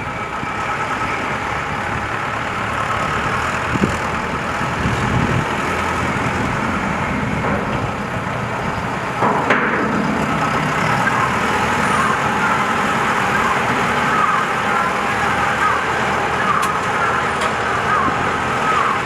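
A 3.5 m³ self-loading concrete mixer running, a steady machine noise that gets slightly louder about nine seconds in.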